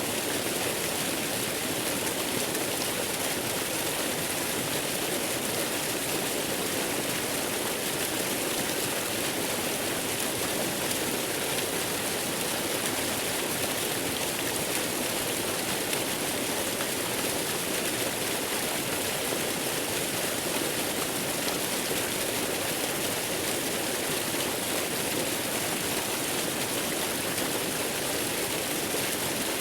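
Steady rushing noise of a waterfall, even and unchanging throughout, with a strong hiss up into the highest pitches.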